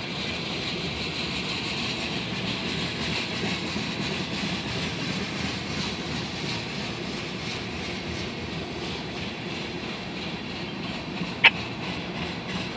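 Freight train of tank cars rolling steadily past, a continuous rumble and rattle of wheels on rail. A single sharp click near the end is louder than the rest.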